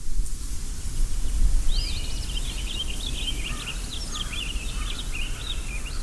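A songbird singing a rapid run of short, rising and falling high notes from about two seconds in until near the end, over a steady low rumble of outdoor background noise.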